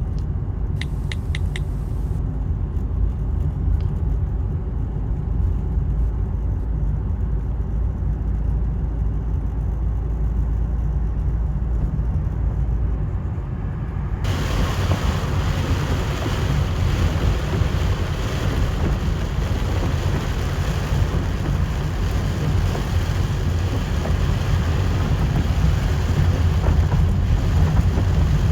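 Stormy weather: a steady low wind rumble on the microphone, joined about halfway by the even hiss of heavy rain.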